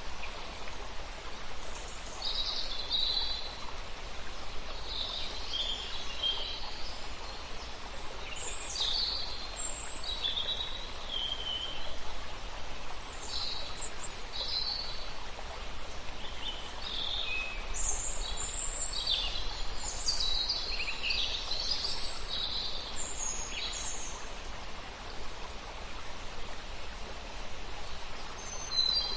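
Several birds chirping and calling in short, high phrases, busiest about two-thirds of the way through, over a steady background hiss.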